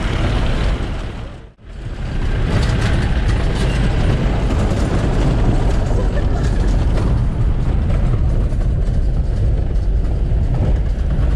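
Off-road jeep driving over a rough dirt track: steady engine and road rumble, which briefly drops out about one and a half seconds in.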